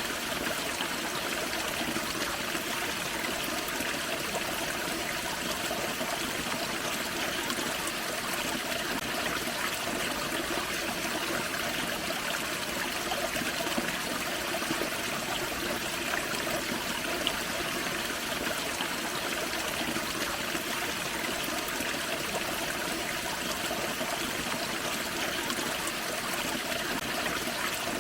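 Forest creek running over a small waterfall: a steady rush and trickle of water.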